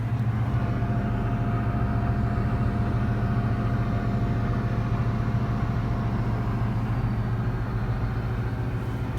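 Heavy vehicle engine running at a steady speed, a low even hum with no change in pitch.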